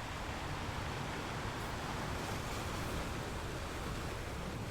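Ocean surf washing on a beach: a steady wash of waves.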